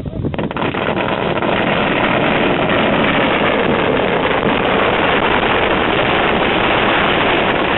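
Fireworks going off at close range: a loud, unbroken hissing crackle that starts suddenly and runs on steadily, like a firework fountain or a long string of firecrackers.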